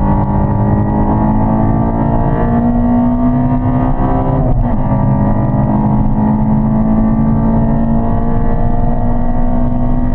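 Honda Civic Type R EP3's 2.0-litre VTEC four-cylinder engine under hard acceleration on track, its revs climbing steadily through a gear. There is a quick upshift about four and a half seconds in, then it climbs through the next gear.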